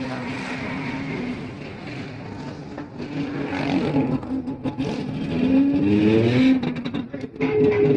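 Motorcycle engine running with a steady note, revved up about five seconds in, with a few clicks and knocks.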